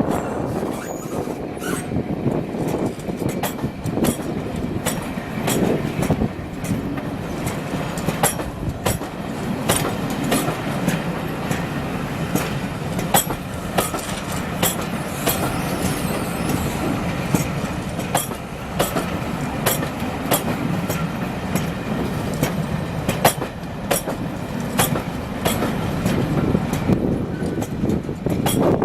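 Railway coaches rolling slowly past, wheels clicking repeatedly over rail joints and pointwork over a steady low rumble.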